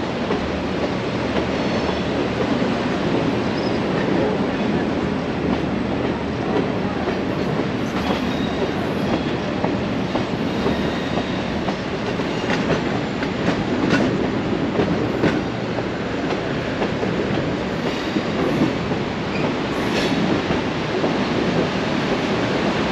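Scenic passenger train running along the rails, heard from an open-air car: a steady rumble and rattle of wheels on track with a few sharp clicks, blended with rushing river rapids.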